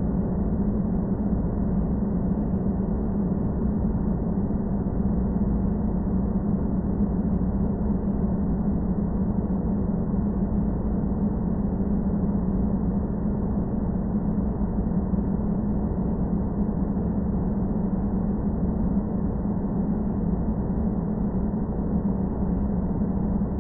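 Sci-fi space-planet ambience sound effect: a steady, low rumbling drone with a hum around its middle, unchanging throughout.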